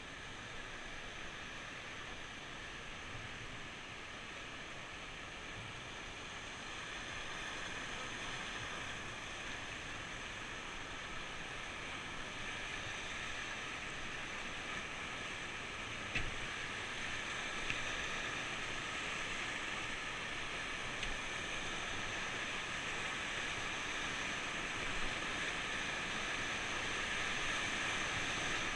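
Rushing river water: a steady noise that slowly grows louder, with a single sharp click about halfway through.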